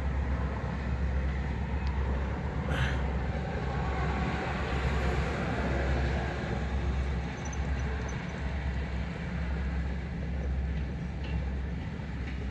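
Freight train rolling by with a steady low rumble, and a brief sharp sound about three seconds in.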